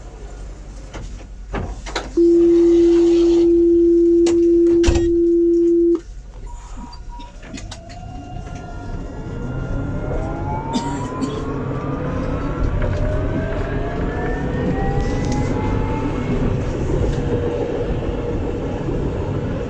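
Alstom Citadis 402 tram at a stop: a loud steady electronic warning tone sounds for about four seconds as the doors close, then the tram pulls away, its traction motors whining in several rising pitches over a growing rumble.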